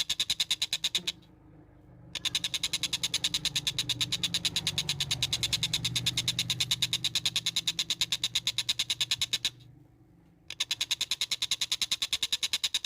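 Tengkek buto bird calling: a fast, even train of sharp pulses that sounds like a train. It comes in three runs, broken by two pauses of about a second.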